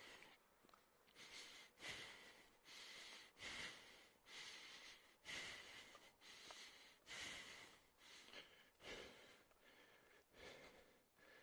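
A hiker's faint, heavy breathing while climbing a steep trail, in quick, regular breaths in and out.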